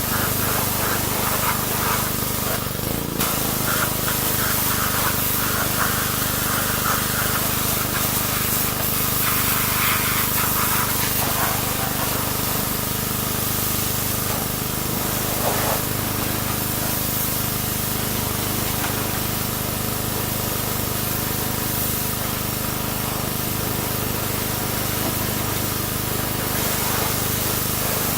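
Pressure washer running with its water jet spraying steadily, a constant hiss over a steady motor hum.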